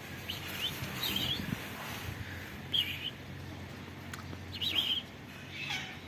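A bird chirping: about four short, high chirps a second or two apart.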